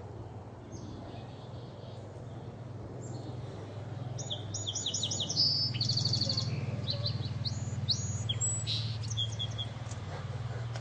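Song sparrow singing: a series of clear repeated notes, a fast trill and then a few more notes, loudest from about four seconds in. A steady low hum runs underneath.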